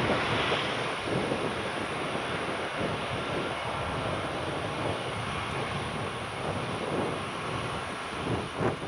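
Jet airliner engine noise, a steady rushing roar with no change in pitch.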